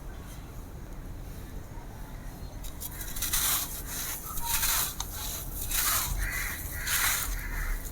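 Dry, crispy blue sand-cement chunks being crumbled and crushed. From about three seconds in come repeated crunchy bursts, several in a row.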